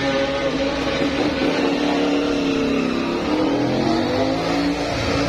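Engines running and revving, their pitch slowly rising and falling.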